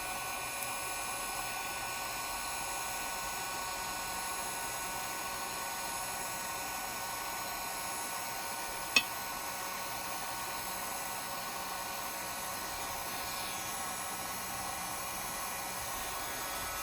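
Heat gun blowing steadily, its fan motor giving an even rush of air with a fixed whine, used to soften the adhesive under a phone's headphone-jack flex cable. A single sharp click sounds about halfway through.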